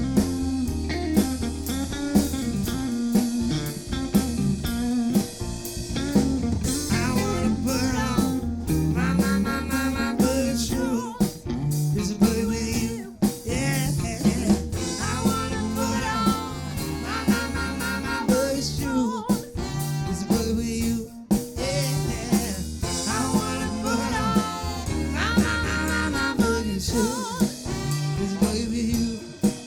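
Live funk band playing: drum kit, bass and electric guitar keeping a steady beat, with a melody line above.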